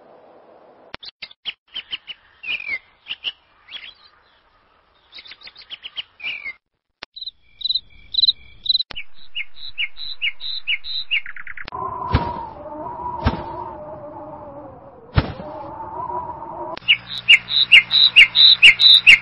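Birds chirping in short repeated phrases of quick high notes, cutting in and out abruptly. For about five seconds in the middle, a lower drawn-out wavering sound with a few sharp knocks takes over, then the chirping returns over a low steady hum.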